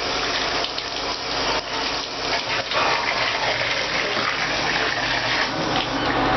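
Tap water running steadily and splashing.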